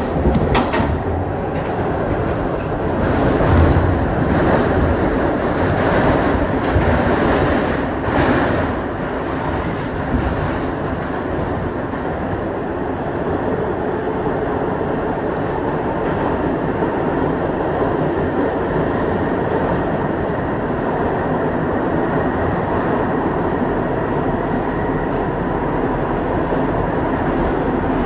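Kawasaki R62 subway train running along the track, heard on board: a steady rumble and hiss of wheels on rail. In the first several seconds there are a few sharp clacks over rail joints.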